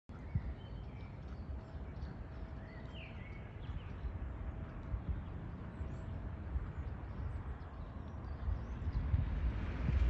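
Low, uneven rumble with faint, short bird chirps now and then above it.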